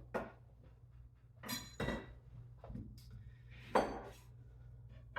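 Kitchen utensils and dishes clinking and knocking: a few separate clinks, some ringing briefly, with the sharpest click about four seconds in.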